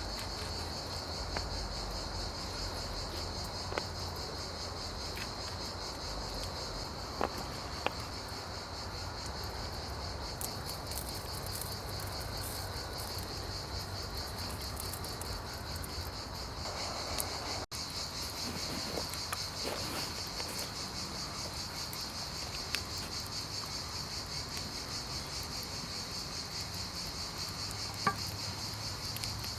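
Crickets chirping in a steady, high, finely pulsing chorus, with a few faint clicks and a low steady hum underneath.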